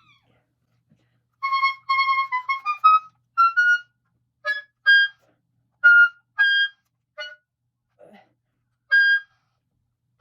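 Oboe playing short, detached notes: a quick run stepping upward in pitch, then single notes spaced about half a second to a second apart.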